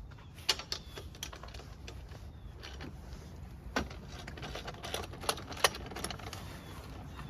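Irregular metallic clicks and clanks of a wrench working the front axle nut of a Razor dirt bike, a few sharper knocks among lighter ticks.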